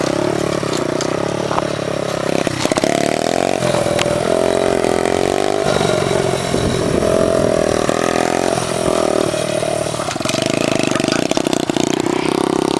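Small pit bike engine running, its pitch rising and falling again and again as the throttle is opened and closed.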